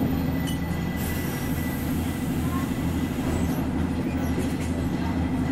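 Passenger train running along the track, a steady low rumble of the carriage and wheels heard from inside the car.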